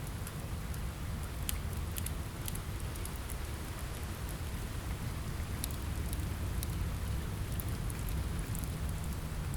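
Steady rain with a deep, even low rumble, over which a wood fire gives scattered sharp crackles and pops at irregular moments.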